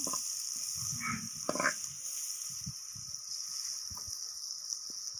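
Oil sizzling steadily in a metal pot as dark-browned onions and cumin seeds fry. A slotted metal spoon scrapes and knocks against the pot a few times in the first two seconds.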